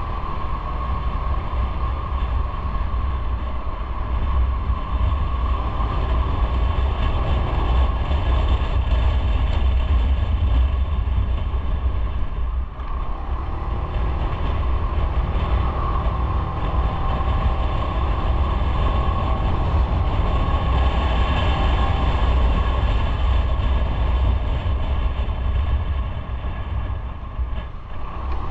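Motorcycle running under way, its engine with road and wind noise on an onboard microphone, steady throughout, with two brief drops in level, one about halfway and one near the end.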